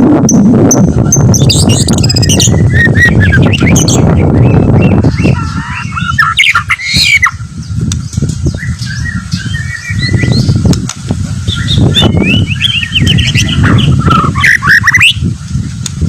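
White-rumped shama singing: varied phrases of gliding whistles and rapid trilled, chattering notes. A loud low rumbling noise runs under the song, strongest in the first few seconds.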